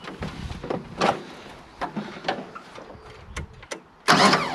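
Scattered light clicks and knocks of tools and parts being handled on a tractor, then a short loud scrape a little after four seconds in.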